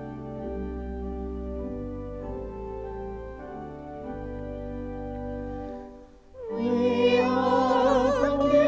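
Church organ playing slow sustained chords; about six seconds in it pauses briefly, then singing with a wide vibrato begins over organ accompaniment.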